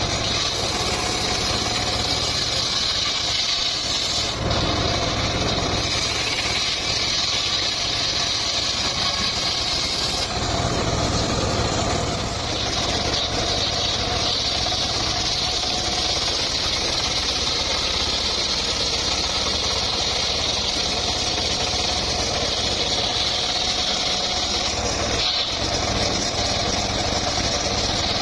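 Engine-driven sawmill running while its blade cuts through mahogany: a loud, continuous mix of engine and saw noise, changing slightly every several seconds as the cut goes on.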